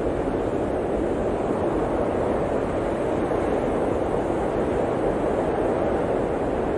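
Blizzard wind blowing steadily, a dense, even rushing with no gusts or breaks.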